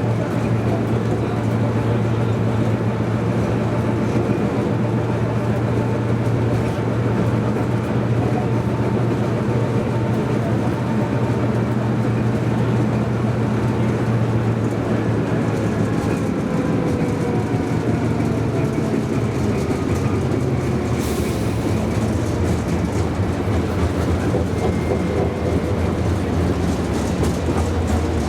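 A tram running on its rails, with a steady low hum of motors and wheels and a faint whine that slides in pitch. The hum drops lower a little past halfway, and a brief hiss comes about three quarters of the way through.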